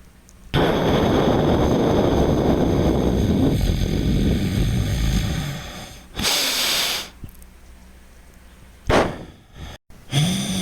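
Loud breathing through the nose: one long breath of about five seconds, a shorter breath of about a second, then two short, sharp breaths near the end.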